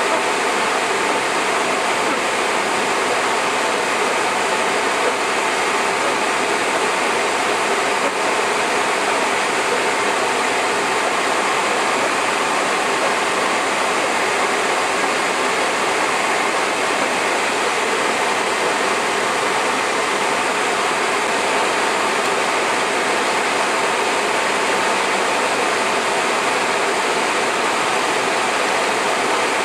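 Hard rain falling: a loud, steady rushing hiss that does not let up.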